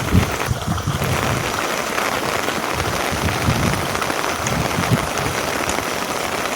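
Steady rain falling, an even hiss, with a few low thumps in the first second and again around three to five seconds in.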